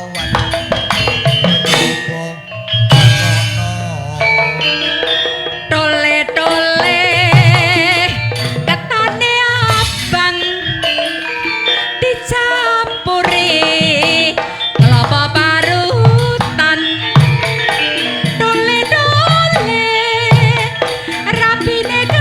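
Javanese gamelan music with kendhang hand-drum strokes under a wavering, vibrato-laden melody line.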